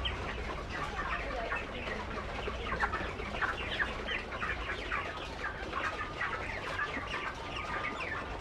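A flock of chickens clucking and calling, many short calls overlapping continuously.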